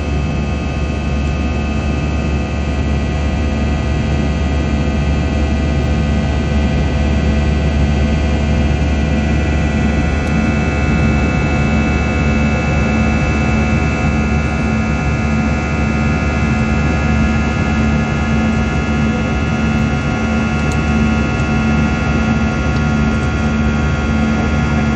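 Airbus A321 cabin noise in the climb after takeoff: a steady jet-engine drone with a low hum and a whine of several tones that rises slightly about ten seconds in.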